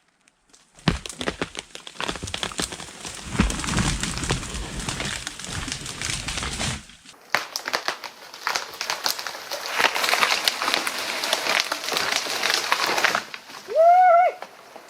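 A big tree falling: wood cracking and snapping from about a second in, then the trunk crashing down through branches with a heavy low rumble. Several more seconds of crackling and snapping branches follow, and there is a short whoop near the end.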